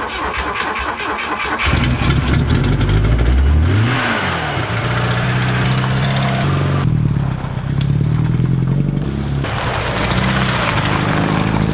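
Volvo 142's four-cylinder petrol engine starting up: it catches about two seconds in, revs with a rising pitch, then runs on with its pitch changing in steps.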